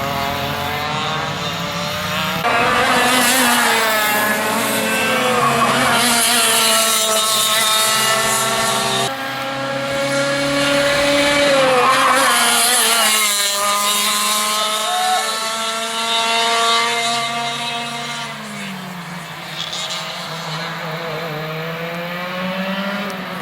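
Racing go-kart engines at high revs, several at once, their pitch rising and falling as karts accelerate, brake for corners and pass by.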